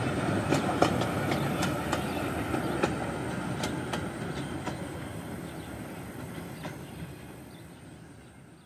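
Passenger coaches of a 16-inch gauge grand scale train rolling along the track, a steady rumble with irregular sharp clicks of the wheels over rail joints. The sound fades out steadily towards the end.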